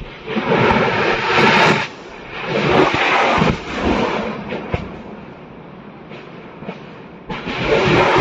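Ammunition depot cooking off: bursts of rapid crackling pops from munitions going off in the fire, one just after the start lasting over a second, another about two and a half seconds in, and a third near the end.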